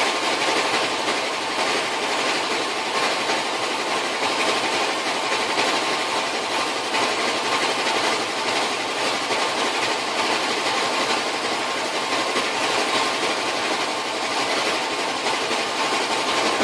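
Torch flame running steadily with an even hiss, heating a seized nut on a vise so that the threads expand and break loose.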